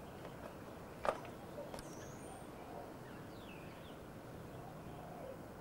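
Faint bird chirps and whistles over a steady background hiss, with one sharp knock about a second in.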